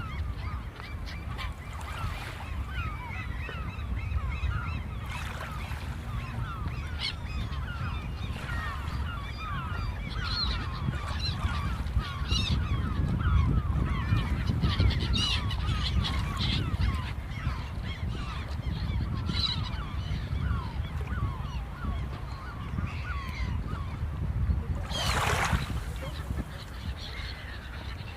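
A flock of seagulls calling, many short cries overlapping without a break, over a steady low rumble. About 25 s in there is a brief rushing hiss.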